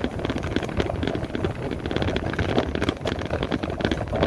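Riding noise from a moving electric motorbike: wind buffeting the microphone over road rumble, with many small rattles and knocks.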